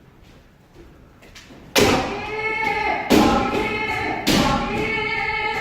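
Kendo practitioners' kiai shouts, each drawn out and held for over a second, begun by a sharp crack of a strike or foot stamp. Three begin in turn, about two, three and four seconds in, after a quiet start with faint taps.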